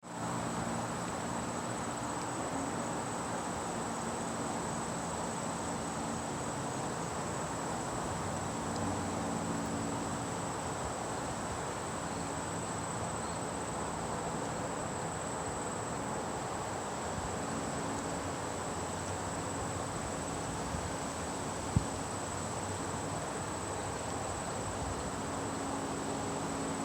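Outdoor ambience of insects trilling continuously at one high pitch over a steady background hum, with one sharp click about 22 seconds in.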